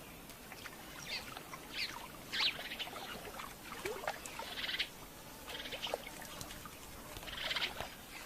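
Short, scattered bird calls over splashing and sloshing in a shallow, muddy pool, as wading birds grab catfish. Louder splashy stretches come about four and a half and seven and a half seconds in.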